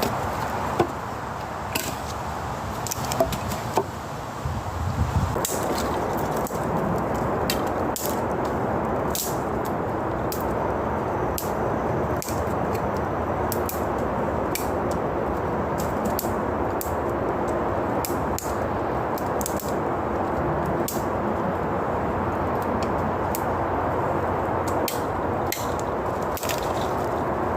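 Wood fire crackling: irregular sharp pops and snaps over a steady rushing noise.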